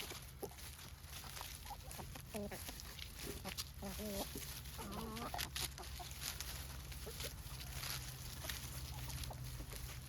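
Free-range chickens clucking softly while they eat, with short wavering calls, thickest in the middle, and frequent small pecking clicks.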